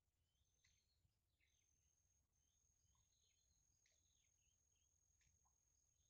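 Very faint bird chirps, short scattered calls throughout, with a steady high-pitched thin tone coming in about a second and a half in.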